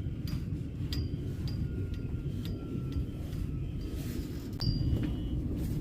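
Glass marbles clinking together in sharp, ringing clicks, one or two a second at an uneven pace, over the steady low rumble of a moving subway car.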